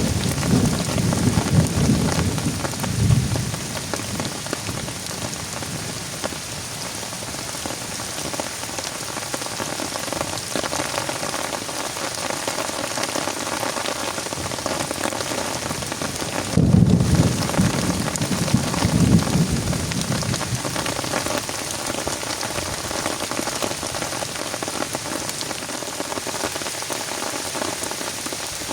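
Heavy rain falling steadily. Two low rumbles of thunder come through it, one near the start and one just past the middle.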